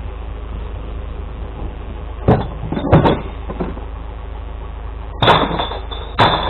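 Glass recycling truck's engine idling steadily, with two sharp clanks a couple of seconds in and a loud rattling clatter of glass and bin near the end.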